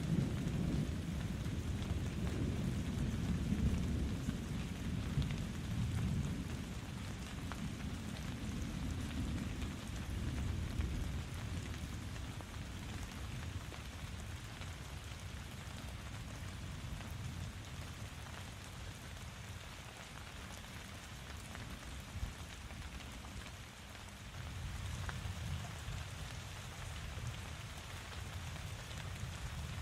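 Steady rain falling, with a low rumble of thunder that dies away over the first ten seconds or so and rolls back in faintly about three-quarters of the way through.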